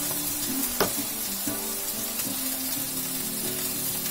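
Onions and garlic with freshly added soy sauce sizzling steadily in a nonstick wok over a gas flame, with one sharp click just under a second in.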